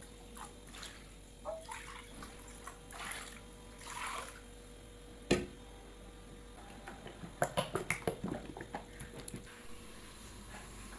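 Scattered clicks and knocks of things being handled. There is one sharp knock about halfway through and a quick run of about eight taps shortly after, with a couple of brief swishes earlier.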